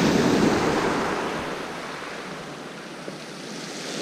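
Sea waves washing onto the beach, a surge of surf noise in the first second that eases off and starts building again near the end.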